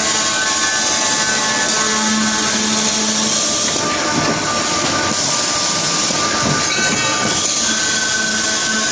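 Automatic high-speed circular saw machine running while cutting pipe: a steady whine with a hiss. The sound shifts twice in the middle, when the top of the hiss drops away briefly.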